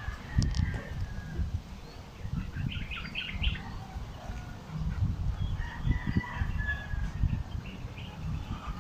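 Farmyard birds, chickens among them, chirping and clucking in short bursts a couple of times, over a continuous low rumble.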